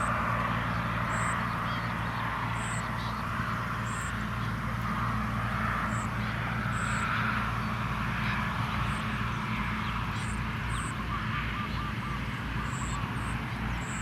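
Sparrow nestlings calling: short, high chirps about once a second over a steady chattering, with a low hum underneath.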